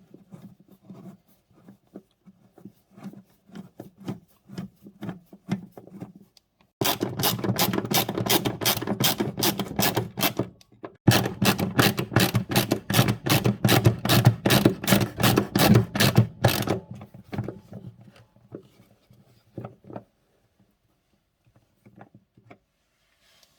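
Rapid, rhythmic rasping clicks of hand-tool work, about four strokes a second, in two long runs with a short break between them, and scattered lighter clicks and knocks before and after.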